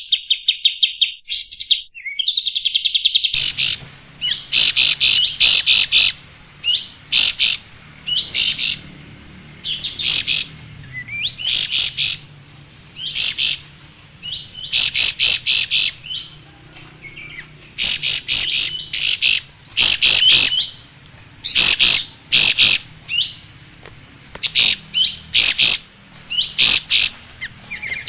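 Kapas tembak, a bulbul, singing in short bursts of rapid, high chattering notes, repeated about every second or so.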